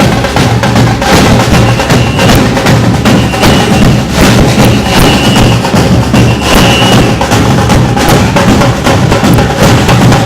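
Samba percussion band playing a loud, dense drum groove of rapid, evenly spaced strikes. A short high steady tone sounds four times over the middle of it.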